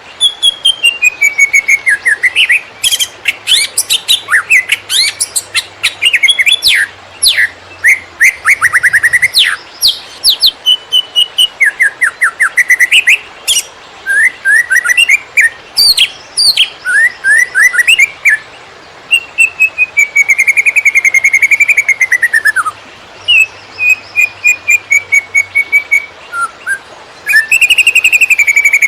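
Cucak ijo (green leafbird) singing a fast 'konslet' song: rapid strings of chirps and trills mixed with sweeping whistled phrases, with only brief pauses between bursts.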